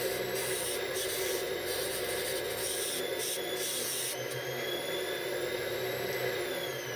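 An electric motor-driven machine running with a steady whir. From about four seconds in a whine rises slightly, then from about six seconds it falls in pitch as the machine slows down.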